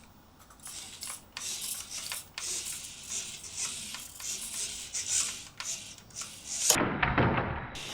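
Mini 1:64 rear-wheel-drive RC car's small electric motor whirring and its rubber tyres scrubbing on a hard floor in short throttle bursts. A louder, duller burst of noise comes near the end.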